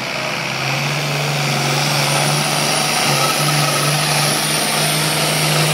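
International Harvester 966 tractor's six-cylinder diesel engine running hard under full load as it pulls the sled, its pitch stepping up slightly about half a second in and then holding steady.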